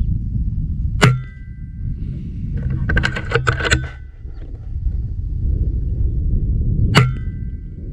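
Two shots about six seconds apart, each a sharp crack followed by a short metallic ring, with a quick flurry of clicks between them and a steady low rumble underneath.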